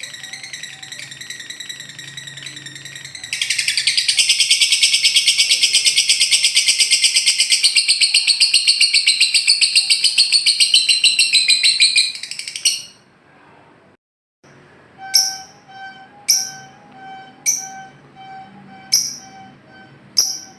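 Lovebird's long, rapid chattering trill (the 'ngekek' song), high-pitched, getting much louder about three seconds in and cutting off suddenly after about twelve seconds. After a short gap come five sharp, high bird calls, a little over a second apart, over a faint pulsing tone.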